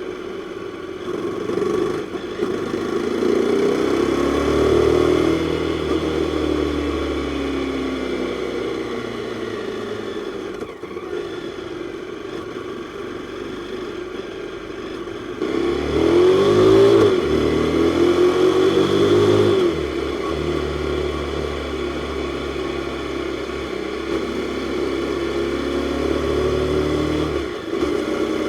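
Jawa 42's single-cylinder four-stroke engine pulling under way, its pitch rising and falling with the throttle. It climbs a few seconds in, pulls hard and rises about halfway through, drops sharply at around 20 s, then holds a steady note until it drops again near the end.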